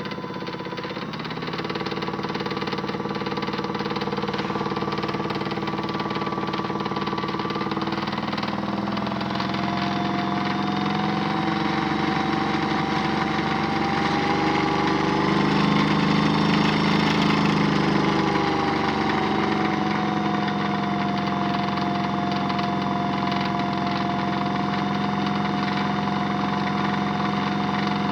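Small electric motor of a modified Miele W1 toy washing machine running steadily with a hum and whine. Through the middle the whine rises in pitch and gets louder, then eases back down to its earlier speed.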